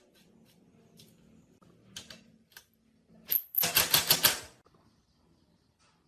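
A few scattered sharp clicks, then a loud, fast run of clicks, about eight a second, for a little over a second near the middle.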